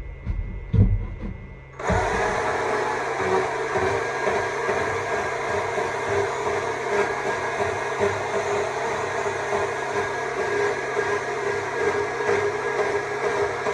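A couple of short knocks, then a Stihl MSA 200 C battery chainsaw starting up about two seconds in and running steadily.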